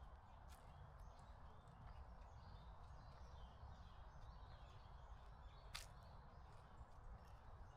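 Near silence: quiet forest ambience with a low rumble, faint distant bird chirps, and a single sharp click shortly before the end.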